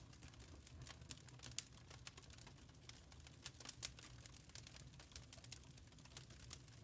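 Wood fire crackling in a fireplace: faint, irregular pops and snaps over a low steady rumble.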